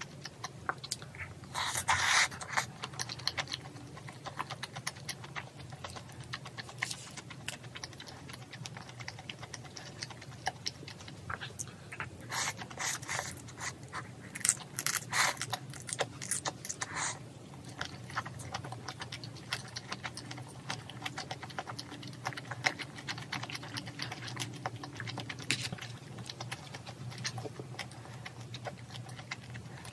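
Close-up eating sounds: wet chewing and mouth clicks from someone eating soy- and spice-marinated raw shrimp with rice, with louder bursts about two seconds in and again from about twelve to seventeen seconds.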